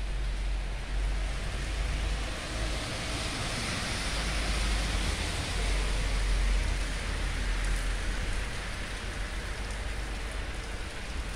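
Steady heavy rain falling and pattering on surfaces, a continuous hiss with a low rumble underneath.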